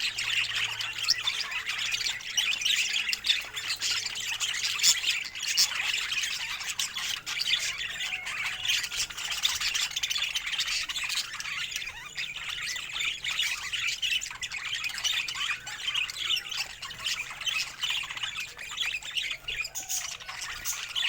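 Budgerigars chattering and squawking, a dense stream of many short overlapping calls with no pause.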